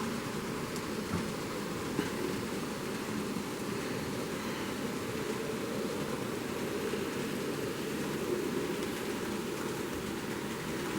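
Kato N-scale model trains running on the layout's track: a steady rolling whir of small wheels and motors, with a couple of faint clicks about one and two seconds in.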